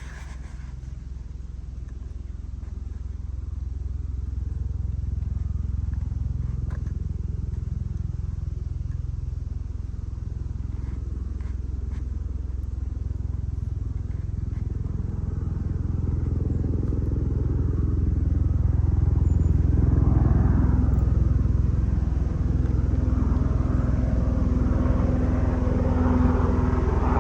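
Police helicopter approaching, its low rotor and engine drone growing steadily louder.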